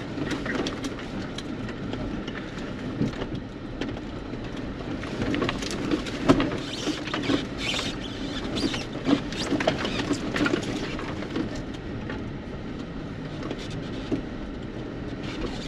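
Off-road 4x4 driving slowly over a rough dirt and rock trail: tyres crunching over gravel and stones, with many irregular small clicks and rattles over a low steady hum.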